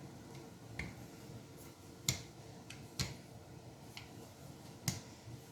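Sharp, irregular clicks and knocks from a rolling pin working noodle dough on a cutting board, with the louder knocks about a second or so apart.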